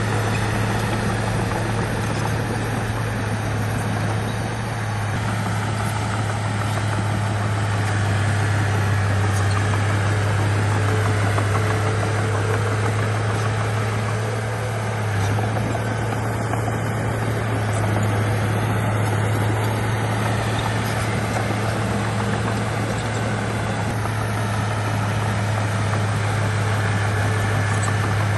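Bulldozer's heavy diesel engine running steadily with a constant low drone and no marked revving.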